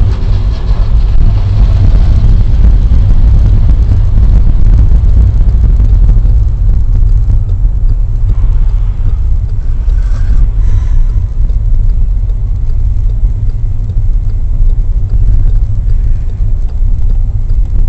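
Car driving, heard as a steady, loud low rumble of engine and road noise.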